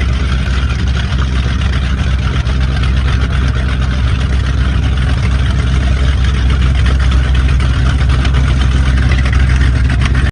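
Offshore powerboat engines running steadily, a deep rumble with a hiss of water or exhaust above it, growing slightly louder toward the end.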